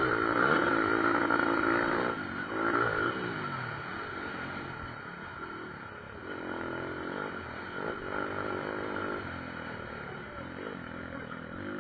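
Pit bike engines revving as the bikes race past, their pitch rising and falling with the throttle; loudest in the first few seconds, then fainter as they move off.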